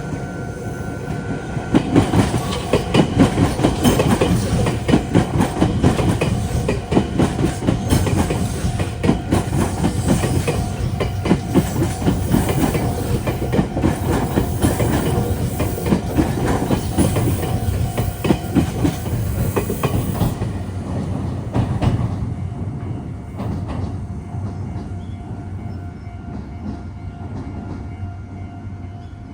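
Meitetsu electric train passing close by, its wheels clattering rapidly over rail joints and points. The passage is loudest from about two seconds in and dies away after about twenty seconds.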